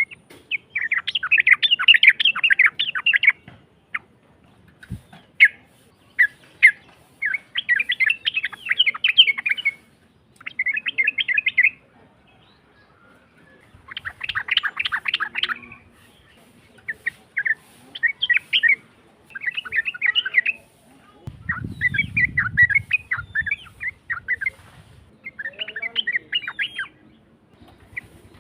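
Yellow-vented bulbul (cucak trucuk) singing in repeated bursts of fast, harsh chattering notes, each phrase a second or two long with short pauses between. A faint low rumble sits under the song about two-thirds of the way through.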